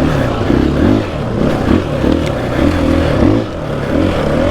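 KTM 500 EXC-F dirt bike's single-cylinder four-stroke engine at low revs, its pitch rising and falling over and over with short throttle openings.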